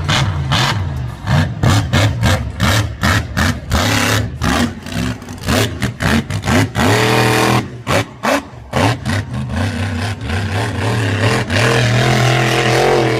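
Monster truck engine revving hard at the throttle, its pitch rising in surges about seven seconds in and again near the end, with a rapid string of sharp cracks and bangs throughout.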